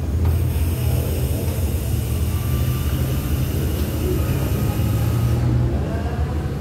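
Diesel passenger train standing at a platform, idling with a steady low rumble. A high hiss runs over it and cuts off suddenly about five and a half seconds in.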